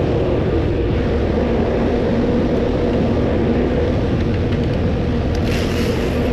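Steady low rumble of a box truck's engine running, with a faint hum over it. A few light clicks and a brief rustle come near the end.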